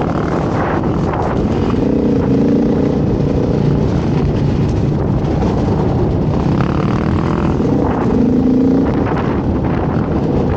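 Beta dirt bike engine running while being ridden, revving up about two seconds in and again around eight seconds.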